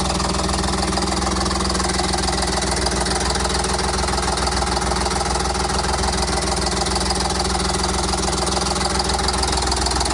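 Detroit Diesel 6V92 two-stroke V6 diesel running steadily just after catching on a cold start, firing on only half of its cylinders.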